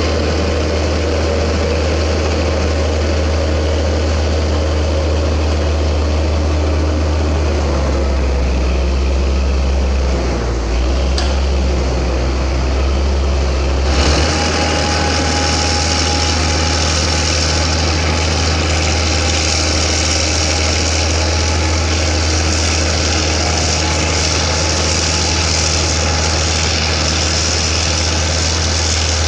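CAT D6G bulldozer's 10.5-litre Cat 3306T turbocharged diesel engine running steadily, a deep low hum with the machine's mechanical din over it. About halfway through the sound changes abruptly, with more hiss on top.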